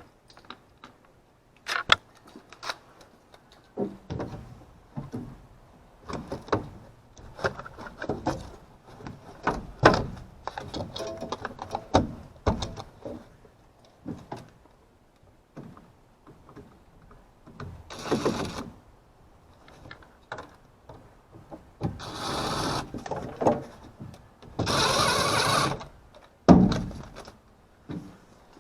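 Clicks, knocks and clatter of tools and equipment being handled, with three bursts of hissing about eighteen, twenty-two and twenty-five seconds in, the last the loudest.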